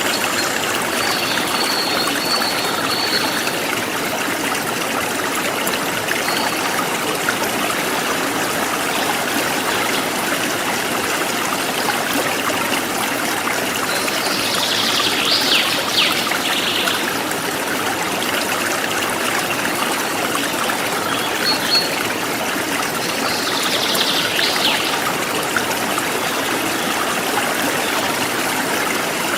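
A stream flowing steadily, with a bird calling over it a few times: a thin high note about a second in, then two short bursts of chirps around halfway and near the end.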